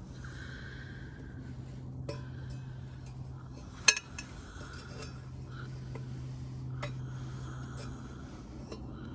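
Metal camp cookware and utensils being handled, giving scattered clinks and knocks, with one sharp clink about four seconds in.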